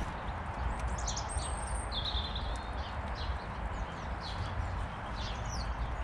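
Garden ambience: short, high bird chirps and calls scattered through a steady outdoor background hiss and rumble.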